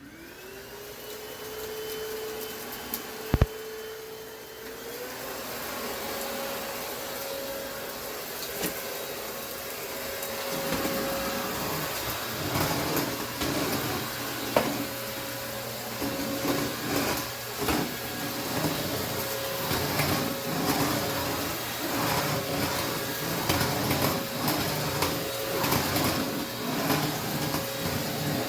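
Cordless stick vacuum motor spinning up with a rising whine, with a sharp click a few seconds in and a step up in pitch about five seconds in. From about ten seconds in, the vacuum is run over carpet and hard floor, its noise surging and falling with each stroke, with small knocks.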